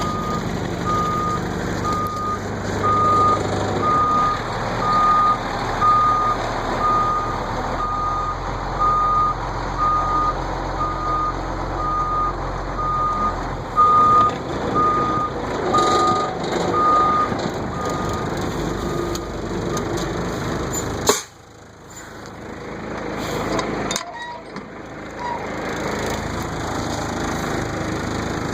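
Dump truck backing up, its reversing alarm beeping about once a second over the low rumble of its engine. The beeping stops about 19 seconds in, and the sound drops off suddenly a little after 21 seconds.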